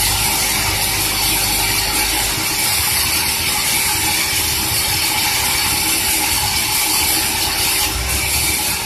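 Sawmill machinery running during the sawing of a large durian log: a loud, steady mechanical noise with a constant hum. A low rumble drops away about two and a half seconds in and comes back near the end.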